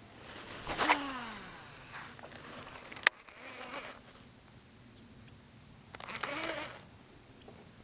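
A flying insect buzzing past twice: about a second in the buzz drops in pitch as it goes by, and around six seconds in it rises and falls. A single sharp click comes just after three seconds.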